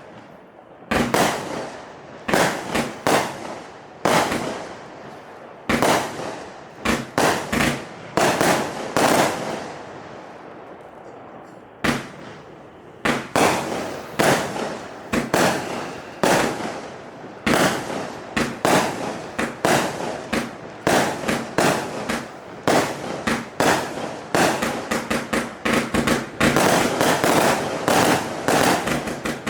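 A 200-shot, 20 mm firework cake firing as a rapid string of bangs, each trailing off. It pauses for about two seconds near the middle, then fires faster and almost without a break toward the end.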